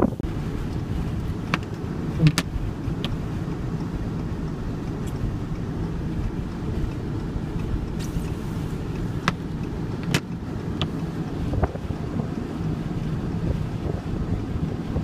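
Steady low rumble of a vehicle driving through blizzard wind, with a few scattered sharp ticks.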